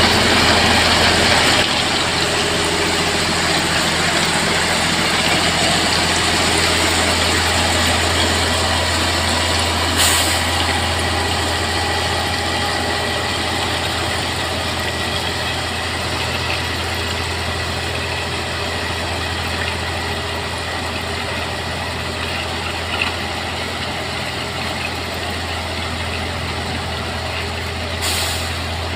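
Heavy diesel engine of a rail vehicle idling steadily with a low hum, with two short hisses, about ten seconds in and again near the end.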